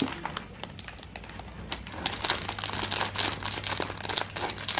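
Thin plastic snack wrappers crinkling as small packets are handled and torn open, a run of crackles that grows busier about two seconds in.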